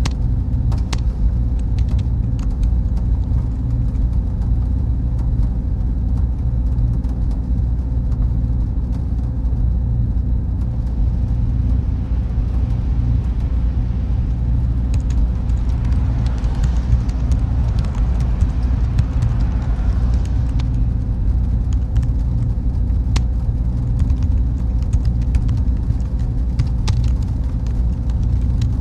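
Server room ambience: a steady low hum of machines and cooling fans, with a faint constant tone and scattered faint ticks. A soft hiss swells for a few seconds a little past the middle.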